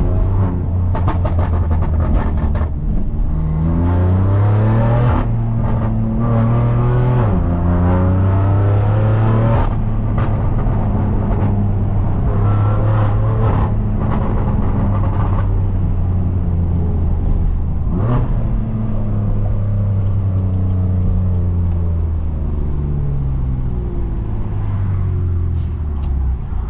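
BMW F80 M3 Competition's S55 twin-turbo inline-six, running catless 3.5-inch downpipes, a single mid-pipe and a valved axle-back with the valves open, pulling through the gears: the engine note rises in steps, holds steady, then falls away near the end. A few sharp cracks come through along the way.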